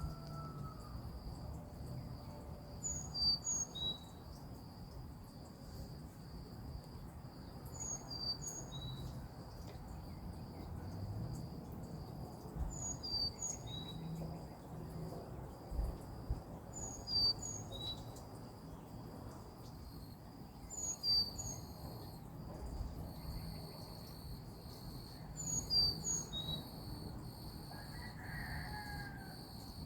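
A songbird repeating the same short, high phrase of a few quick chirps about every four to five seconds, over a steady high-pitched insect drone.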